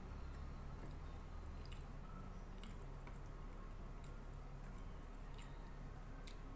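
A person chewing a mouthful of nasi uduk (coconut rice with side dishes), with scattered soft wet clicks, over a low steady hum.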